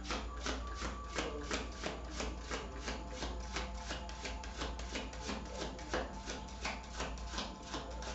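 A deck of tarot cards being shuffled by hand, a steady run of soft rubbing slaps about three a second.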